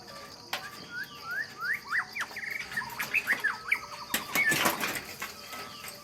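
A bird singing a quick series of short rising chirps with a brief fast trill in the middle. A short rustling burst comes about four and a half seconds in.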